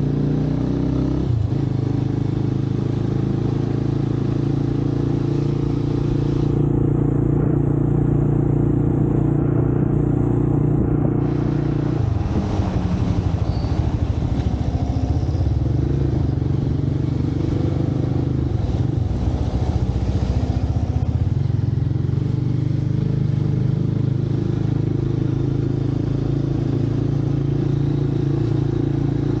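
Motorcycle engine running, heard from a camera mounted on the bike: a steady, even engine note for about twelve seconds, then the pitch shifts up and down for several seconds as the revs change, before settling back to a steady note.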